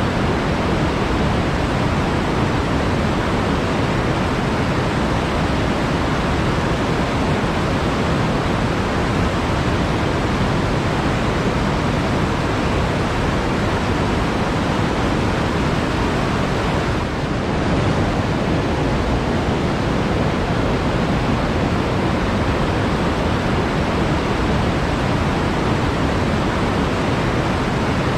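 Flowing water in a forest stream, a steady, dense rushing with a brief slight dip about two-thirds of the way through.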